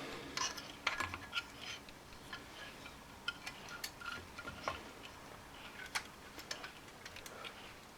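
Scattered light clicks and taps of small parts being handled, as the body of a metal Gauge 1 model locomotive is fitted back on.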